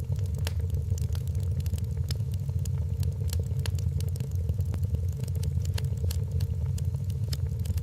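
Wood fire in a fireplace crackling, with many sharp pops over a steady low rumble.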